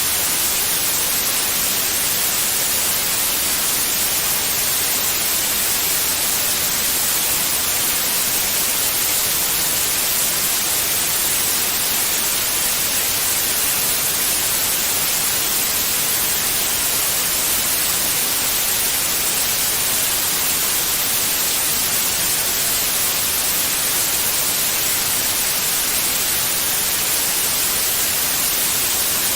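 Continuous white noise: a steady, even hiss, strongest in the high frequencies, with no change in level.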